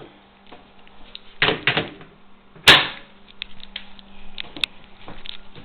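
Handling clatter: a brief rustle, scattered light clicks and one loud sharp knock about two and a half seconds in, over a faint steady hum.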